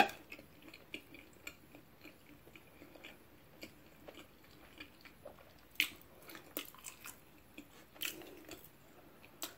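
Close-up mouth sounds of a person chewing a soft bite of saag paneer: small wet smacks and clicks, with a few louder smacks in the second half.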